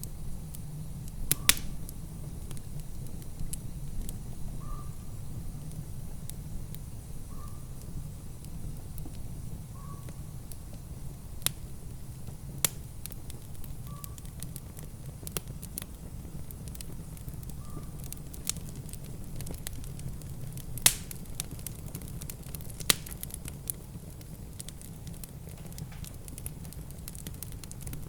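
Wood fire crackling in a fireplace, with irregular sharp pops over a steady low rumble. A faint short chirp recurs every few seconds through the first two-thirds.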